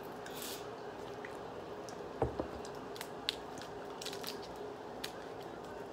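A person chewing a sour apple chew, with a few small sharp clicks and taps scattered through, over a steady low room hum.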